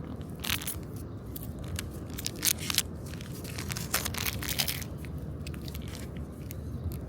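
Crinkling and crackling of packaging being handled or torn open, a run of sharp crackles through the middle seconds over a steady low hum.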